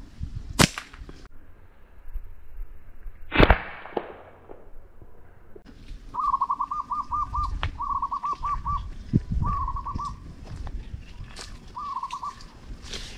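A bird calling nearby: four bursts of fast warbling notes at one steady pitch, from about six seconds in. Before that, two sharp cracks, the louder about three and a half seconds in.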